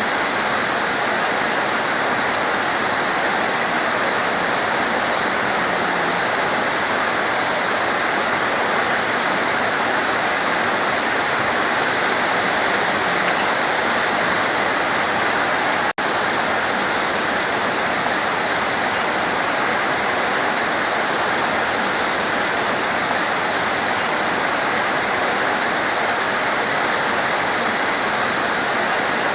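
Torrential rain pouring down steadily, a dense, even hiss with no let-up. It drops out for an instant about halfway through.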